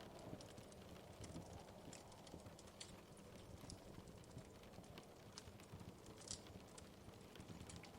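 Wood fire crackling faintly: irregular small pops and snaps over a steady low rush of the flames.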